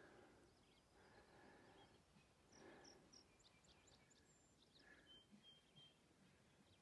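Near silence with faint, high songbird chirps: a run of short notes about two and a half to four seconds in, then a thin whistled note around five seconds in.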